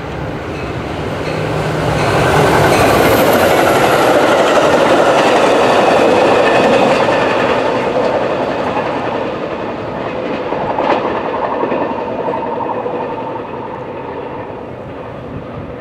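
Metra push-pull commuter train, an EMD F40PHM-2 diesel locomotive and a bilevel cab car, passing at speed: diesel and wheel-on-rail noise with clickety-clack builds to its loudest a few seconds in, then fades as the train moves away. A single sharp click comes about eleven seconds in.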